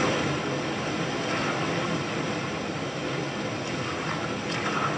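Steady rushing of river water where salmon are leaping, from a nature film's soundtrack played over theatre speakers.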